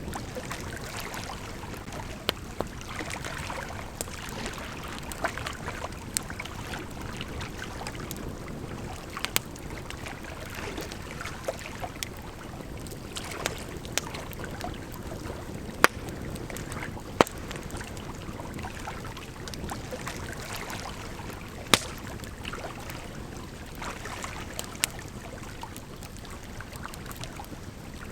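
Campfire crackling, with sharp, irregular pops over the steady rush of a gently flowing river; the loudest pops come a little past the middle.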